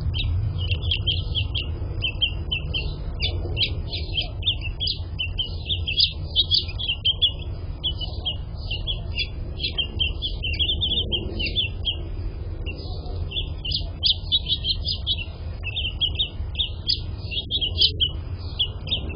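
House finches chirping at the nest during feeding: rapid, continuous runs of short high chirps, with a brief lull just past the middle. A steady low rumble lies underneath.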